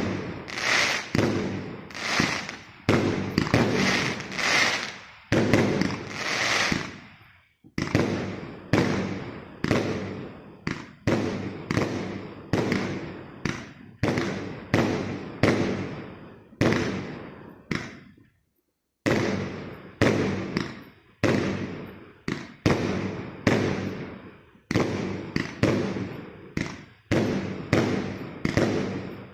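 Consumer fireworks cake (multi-shot battery) firing shot after shot, about one to two bangs a second, each fading away before the next, with a couple of brief pauses.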